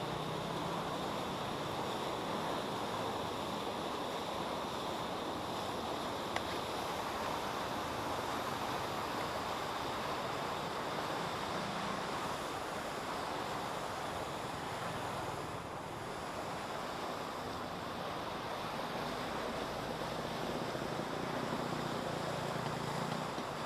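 Steady rushing noise of snowstorm wind, even and unbroken.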